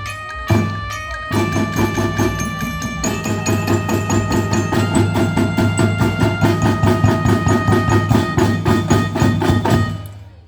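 Marching band playing: held pitched notes over a fast, even drum rhythm with a heavy low bass-drum beat. The music stops abruptly about ten seconds in.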